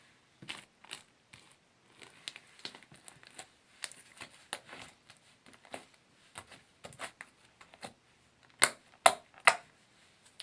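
Sticky slime being squeezed and stretched by hand, giving irregular small clicks and pops, with three louder sharp pops close together near the end.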